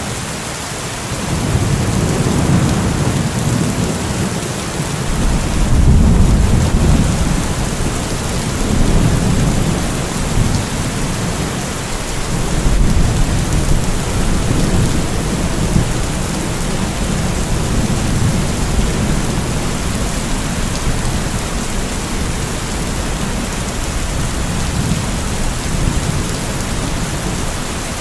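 Steady heavy rain hissing, with low rolls of thunder rumbling under it, the strongest about six seconds in and again around nine and thirteen seconds.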